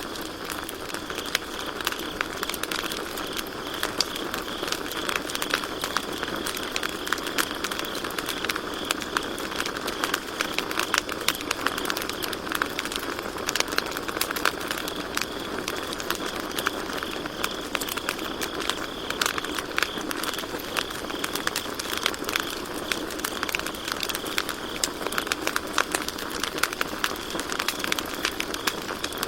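Campfire crackling and popping irregularly over a steady hiss, with a continuous high trilling of crickets.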